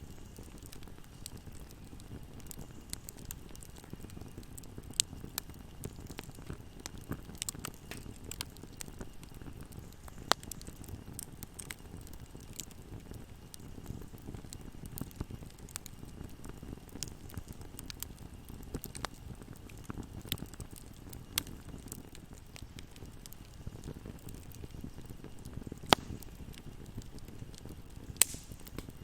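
Wood fire burning in a fireplace: a steady low rumble of flames with irregular crackles and sharp pops, a few louder snaps standing out.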